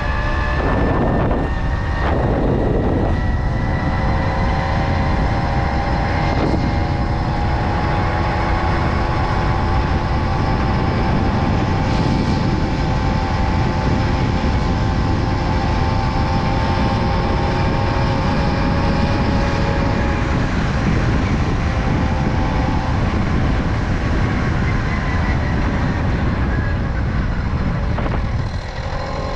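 Tomos Silver Bullet moped's small two-stroke engine running at a steady cruising speed, with wind buffeting the microphone. The engine pitch rises slightly in the first couple of seconds and drops near the end as the moped slows.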